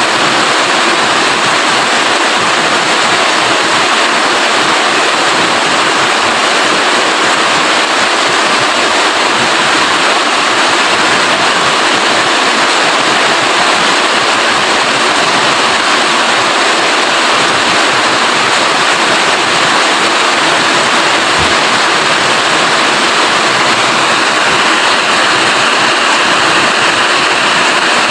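Steady heavy rain, an even wash of noise that neither builds nor fades.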